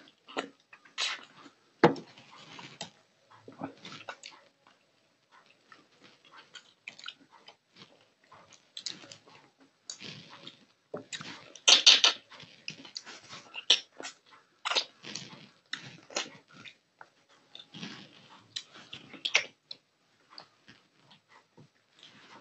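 Close-miked eating of a piece of fish by hand: irregular wet smacking, sucking and crunching bites, loudest about halfway through.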